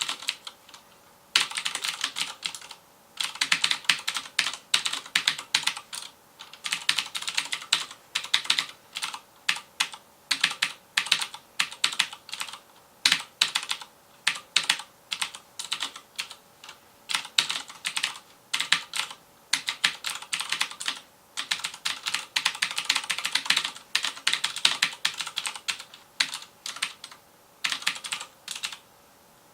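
FILCO Majestouch Convertible 2 mechanical keyboard with Cherry MX Blue switches being typed on fast, in runs of rapid clicky keystrokes broken by short pauses, with a longer pause near the end.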